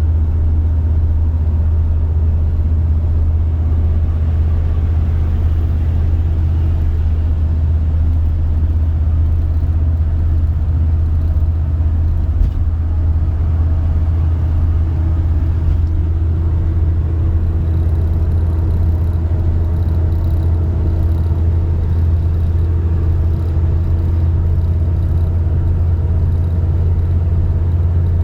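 Car driving, a steady low rumble of engine and road noise, with a faint steady hum joining about halfway through.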